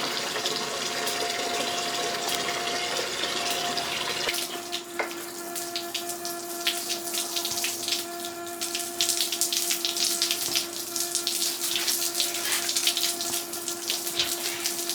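Water running from a garden hose, a steady rush with a steady hum joining about four seconds in, and water spattering in quick irregular splashes through the second half.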